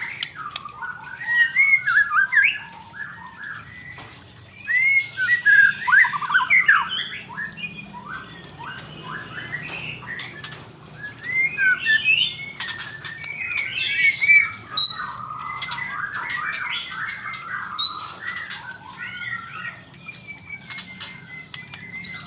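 Male white-rumped shama (murai batu) singing: rapid, varied phrases of whistles, chatter and sharp notes. The song comes in loud bursts with quieter stretches between.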